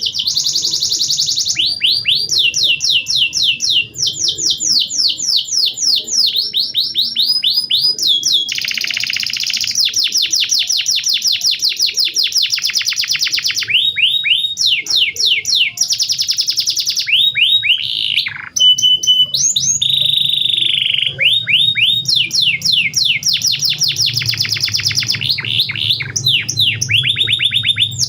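Domestic canary singing a long continuous song: fast trills of rapidly repeated high notes, switching from one trill to the next every second or two, with a few brief held whistles near the middle.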